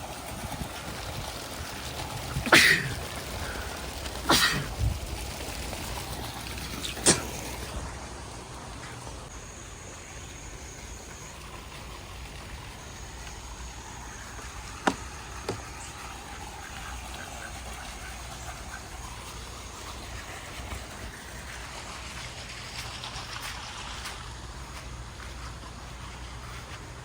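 Steady rush of running floodwater. A few sharp knocks stand out in the first seven seconds, and two fainter clicks come near the middle.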